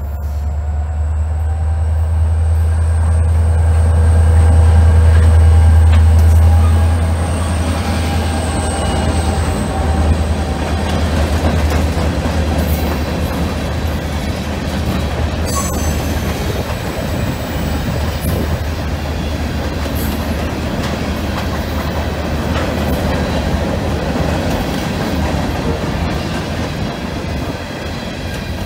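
A diesel freight locomotive passes close by, its engine's low drone loudest about five seconds in. It is followed by loaded covered hopper cars rolling past, with a steady rumble and rattle of steel wheels on the rails.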